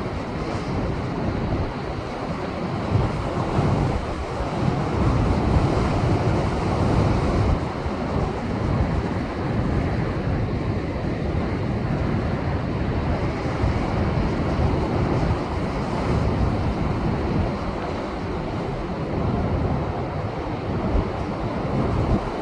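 Rough Pacific surf after a typhoon, heavy waves surging and washing over shoreline rocks in a continuous, swelling rumble. Wind buffets the microphone.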